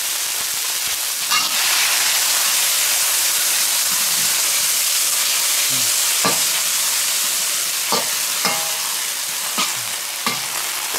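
Chicken strips sizzling in a hot wok, a steady frying hiss, with a few sharp clicks and scrapes of a metal utensil against the wok as the meat is stirred.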